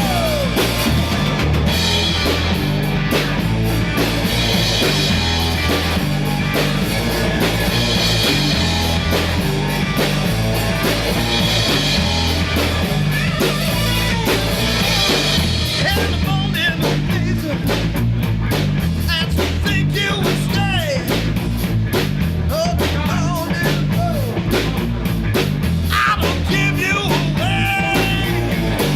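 Rock band recording with a drum kit keeping a steady beat under electric guitar, recorded with a single microphone in the middle of a room rather than in a studio.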